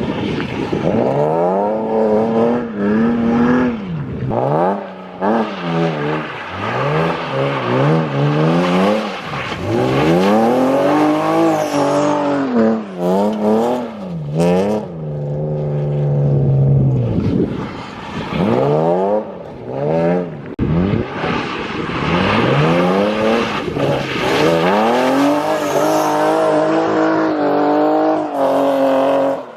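BMW E36 328is drift car's M52 straight-six engine revving hard again and again while drifting, its pitch climbing and dropping many times with short breaks between pulls.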